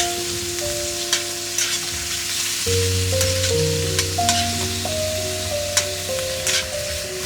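Food sizzling in a hot pan: a steady frying hiss with scattered sharp crackles and pops. Background music plays under it.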